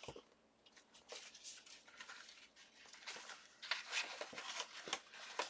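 Sheets of scrapbook paper being handled and sorted: faint scattered rustles and light taps, busier in the second half.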